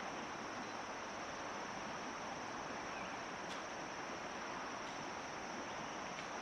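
Steady outdoor noise: an even hiss with a constant high-pitched whine above it and a few faint ticks.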